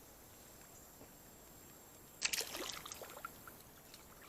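A short burst of splashing and trickling water, about a second long and starting about two seconds in, over a faint steady creek-side background.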